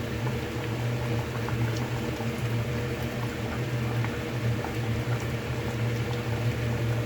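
A pot of water boiling on the stove with a sealed packet of ramen soup stock heating in it: steady bubbling over a constant low hum.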